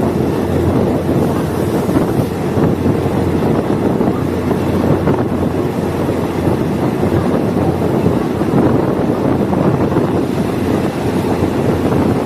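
Diesel multiple-unit train running steadily along the track, a continuous low rumble mixed with wind noise on the microphone.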